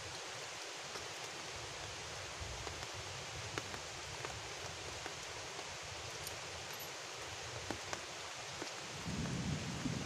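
Steady rain falling on a river and the foliage around it: an even hiss with scattered drop ticks. A low rumble sets in near the end.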